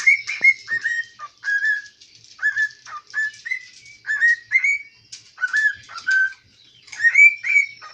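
A cockatiel whistling a run of short, sliding notes one after another, about two or three a second.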